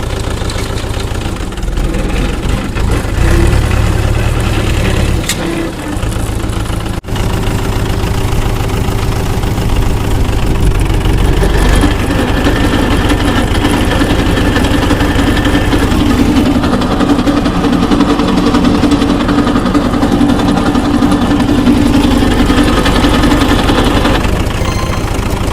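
Tractor engine running steadily at idle, with a sudden brief break about seven seconds in.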